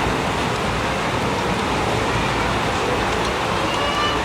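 Heavy rain pouring steadily during a storm, a dense even hiss of rain on surfaces.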